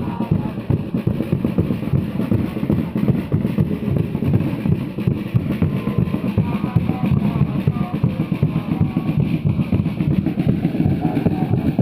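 A crowd of football supporters chanting together over fast, steady drumming.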